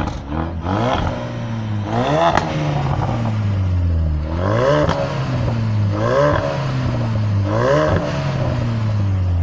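New Ford Focus RS's 2.3-litre turbocharged four-cylinder EcoBoost engine being blipped five times from idle, each rev rising quickly and dropping straight back to a steady idle.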